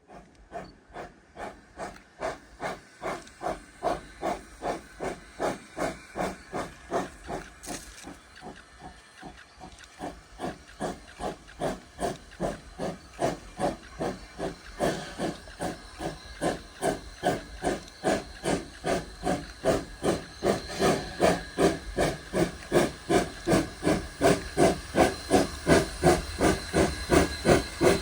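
Rio Grande Southern No. 20, a narrow-gauge 4-6-0 steam locomotive, working steam with a steady rhythm of exhaust chuffs, about two to three a second, growing louder as it draws closer.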